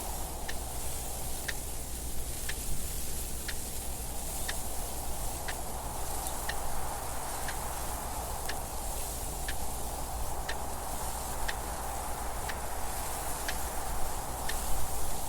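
Clock ticking steadily, about once a second, over a constant hiss of wind noise.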